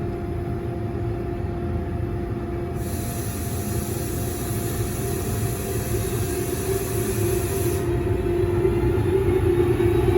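A train running through the station and growing steadily louder as it approaches, with a steady humming tone over a low rumble. A high hiss sounds for a few seconds in the middle.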